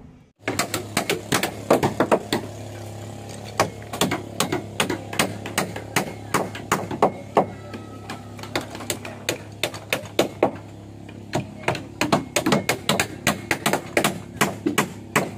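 Rapid, irregular tapping and knocking of tools striking wood, several strikes a second, over a steady low hum.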